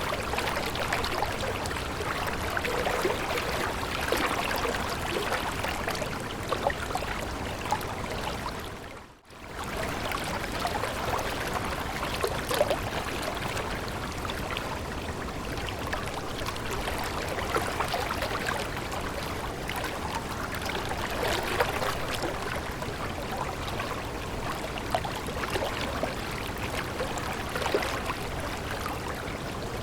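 A stream of water flowing and babbling, a steady rushing with fine splashy detail. It fades out briefly about nine seconds in and comes straight back.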